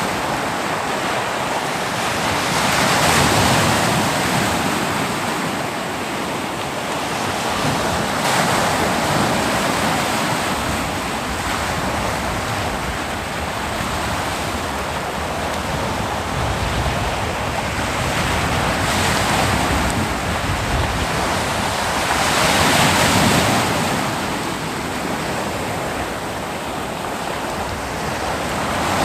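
Ocean waves breaking on a beach, a steady wash of surf that swells as each wave crashes, loudest around 3 s, 9 s and 23 s in. Wind on the microphone is mixed in.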